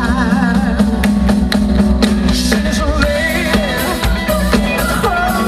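Live band playing with no singing: drum kit strokes under a steady bass and chords, with a wavering held note in the first second or so.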